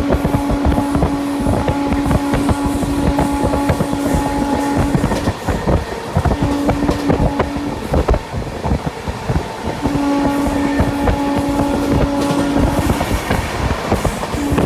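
Sampoorna Kranti Express running at speed: a dense clatter of wheels on track and rattling coach. A steady hum comes and goes several times over it.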